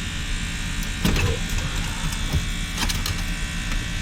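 A few light clicks and knocks as the fuel pump assembly and its plate are worked into the fuel tank opening, over a steady buzzing hum.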